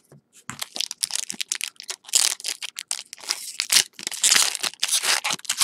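Crinkling and tearing of a trading-card pack wrapper as it is opened: a quick, irregular run of crackles.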